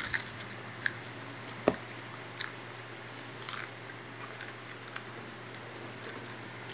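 A small child chewing a mouthful of corn kernels, with scattered soft mouth clicks and one sharper knock about a second and a half in.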